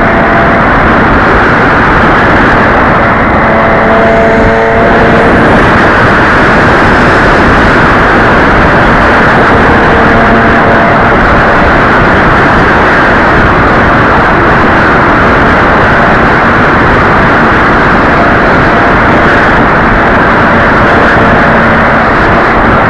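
Loud, steady rushing noise of wind buffeting the microphone, with faint humming tones that come and go from the RC model plane's motor.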